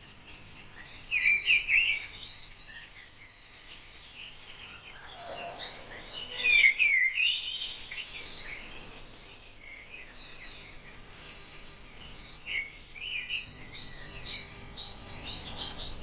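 Several birds chirping and singing in overlapping short calls, with louder bursts of chirps about a second in and again around six to seven seconds in.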